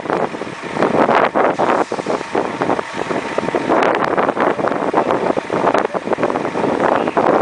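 Wind buffeting the microphone in gusts: a rough rushing noise that keeps swelling and dipping.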